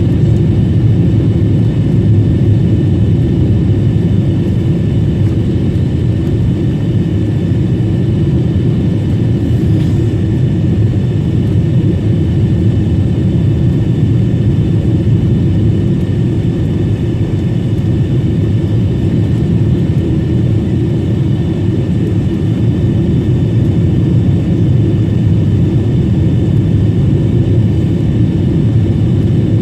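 Steady cabin noise inside a Boeing 777-300 airliner: a loud, even low rumble of the engines and airflow, with faint steady whines above it.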